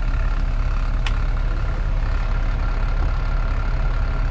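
Semi-truck diesel engine idling, a steady low rumble, with a single short click about a second in.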